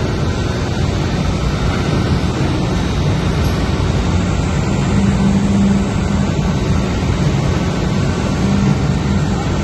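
Steady, loud drone of a ship's engine-room machinery, with a constant low hum under a wide rushing noise.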